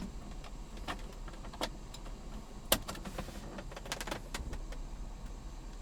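Scattered sharp plastic clicks and taps from handling the cigarette lighter and console trim, the loudest a little under three seconds in, over a low steady hum. The lighter isn't working because its fuse is blown.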